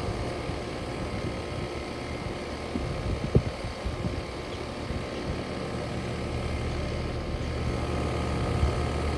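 Steady machine hum with several held tones and a low rumble, from outdoor air-conditioning units running. A single short knock about three and a half seconds in.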